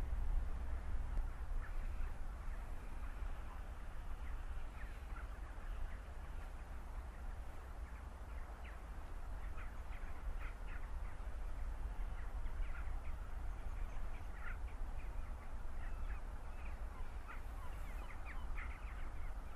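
Many short, high bird calls scattered throughout, most of them in the second half, over a steady low rumble.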